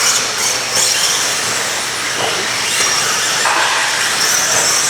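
Radio-controlled stadium trucks racing around a track: a steady hissing whine of motors and tyres, with one truck's whine briefly rising about three seconds in.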